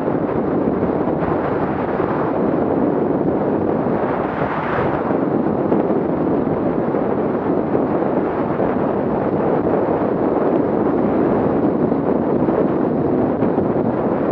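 Off-road vehicle engines running, heard as loud, steady rumbling noise that swells briefly about four to five seconds in.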